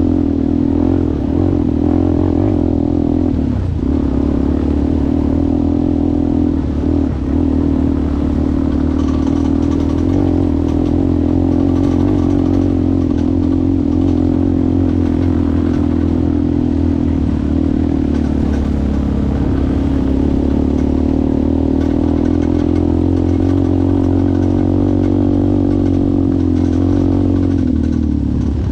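ATV engine running steadily under way, its pitch rising and falling a little with the throttle, with brief dips about three and a half and seven seconds in.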